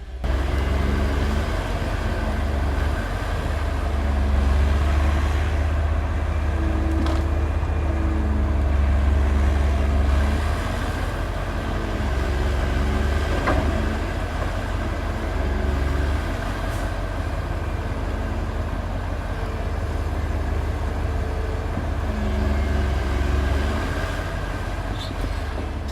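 Diesel engine of heavy earthmoving machinery working steadily, its low rumble rising and falling in strength with the load as the machine refills the pit, with a few faint knocks.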